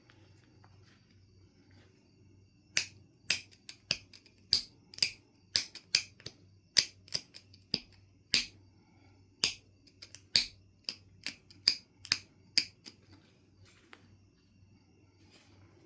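Knife River Flint being knapped: a quick, irregular run of about twenty sharp clicks, roughly two a second, as flakes are struck or pressed off the stone. It starts about three seconds in and stops a few seconds before the end.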